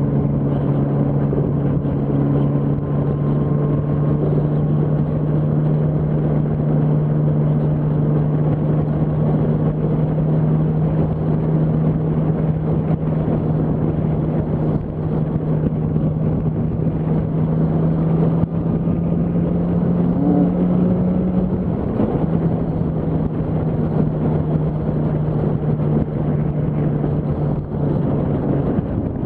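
Yamaha R1's inline-four engine running at steady cruising revs while riding in traffic, with wind rush over the microphone. The engine note creeps slightly higher over several seconds, dips briefly about two-thirds through, then carries on a little lower.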